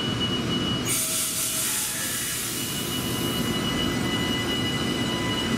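Electric commuter train starting to pull away along the platform, its wheels squealing in thin, steady high tones over a low rumble. A hiss comes in about a second in and fades out after about three seconds.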